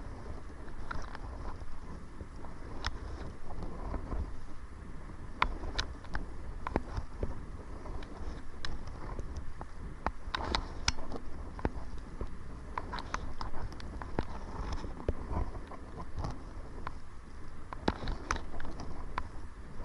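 Kayak being paddled into the wind: wind rumbling on the microphone, with irregular small splashes and knocks of paddle and water against the hull.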